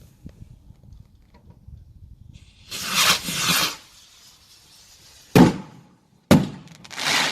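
Consumer fireworks going off: a burst of hissing noise about three seconds in, then two sharp bangs about a second apart, and another hissing burst at the end.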